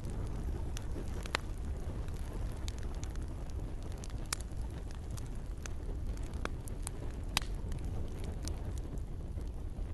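Campfire burning with scattered sharp crackles and pops over a steady low rumble, the loudest pop about seven seconds in.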